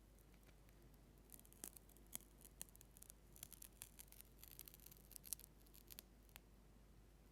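Close-miked ASMR trigger sounds: a quiet run of quick, irregular soft clicks and crackles for a few seconds in the middle.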